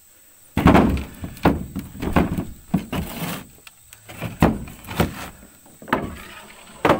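Bricks knocking and clunking against each other as they are pulled from the mud and gathered by hand: a string of heavy, irregular knocks with a short scrape in the middle.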